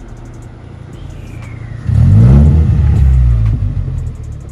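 Datsun 620 pickup's swapped Toyota Beams engine revving hard, starting suddenly about two seconds in; its pitch climbs, then falls away and fades near the end.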